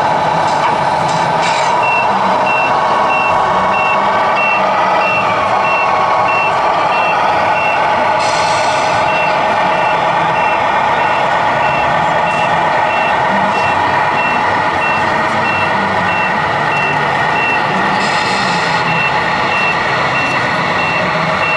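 Reversing beeper of a radio-controlled model truck, beeping about twice a second from about two seconds in, with a short break partway through. Under it runs a steady mechanical whine.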